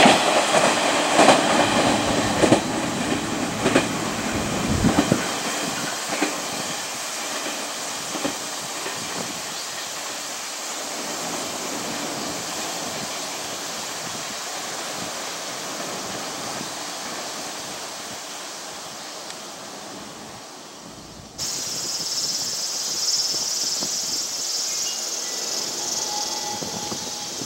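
Electric train running out through a station, wheels clicking over rail joints, the noise fading away as it recedes. About three quarters of the way through it cuts off abruptly to a steady high-pitched hiss.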